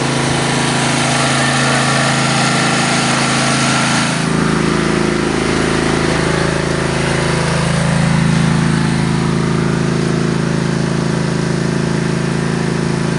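An engine running steadily at an even speed, with a low rumble joining about four seconds in.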